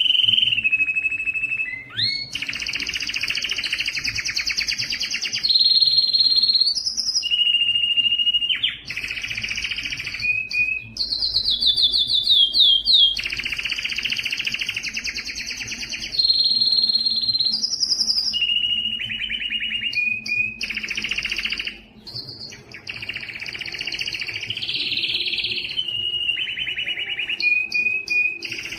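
Spanish timbrado canary singing a continuous song of rapid rolled trills and held notes, the phrase changing every second or two, with a run of quick falling slides near the middle.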